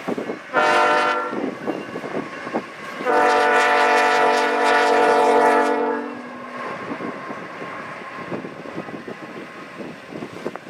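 Locomotive air horn: a short blast about half a second in, then a long blast of about three seconds starting about three seconds in. Wind buffets the microphone throughout.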